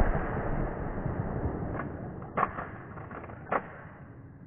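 The fading echo of a 12-gauge shotgun blast fired a split second earlier, dying away over a few seconds. Two sharp clacks about a second apart come through in the middle.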